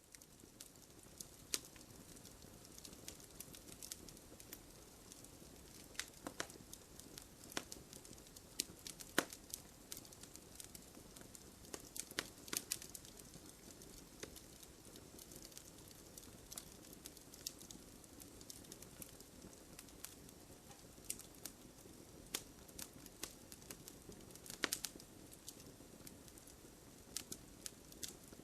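Wood fire burning: a soft steady hiss and rustle with irregular sharp crackles and pops, a few of them louder. It fades in from silence over about the first second.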